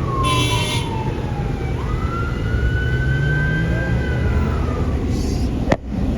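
A police siren wailing, its pitch sliding slowly down, rising, then falling again, over a steady low rumble of engines. A brief high squeal comes about half a second in, and a sharp click comes near the end.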